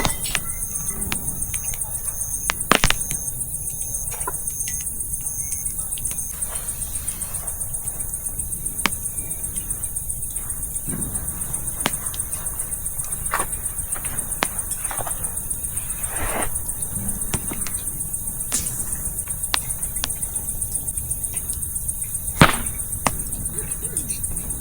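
Wood campfire crackling, with scattered sharp pops about a few seconds apart, the loudest near the start and a little before the end. Behind it, a steady high chirring of crickets.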